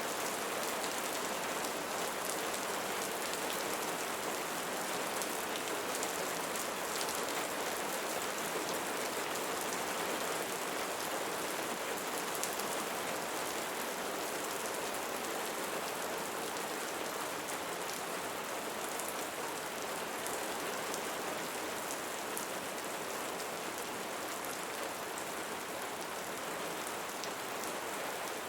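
Steady rain falling on a surface, a constant hiss with fine scattered drop ticks.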